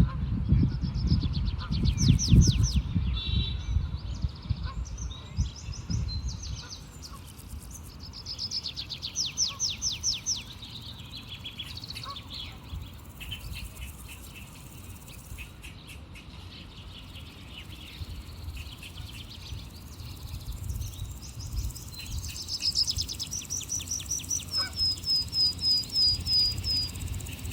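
Small birds singing in repeated phrases of fast, high trilled notes, several times over. One phrase near the end finishes in a run of short, falling notes. A loud low rumble underlies the first six seconds.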